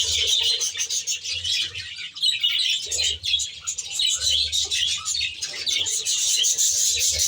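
A flock of budgerigars chattering in an aviary: a dense, continuous mass of overlapping chirps and warbles.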